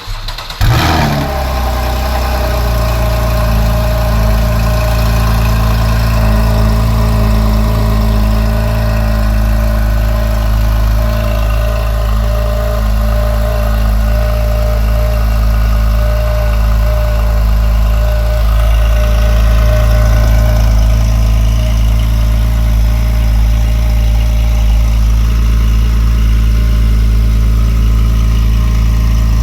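Porsche 991 Carrera S's 3.8-litre flat-six starting up through a Soul Performance sport exhaust with high-flow catalytic converters, catching within the first second, then idling steadily in normal exhaust mode.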